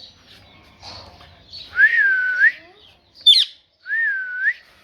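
Pet parrot whistling: two drawn-out whistles, each dipping and then rising at the end, with a sharp high chirp between them.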